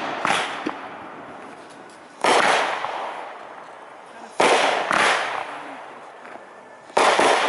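Aerial firework shells bursting, about one every two seconds, with a quick pair near the middle. Each burst is a sharp bang trailing off in a rolling echo over a second or two.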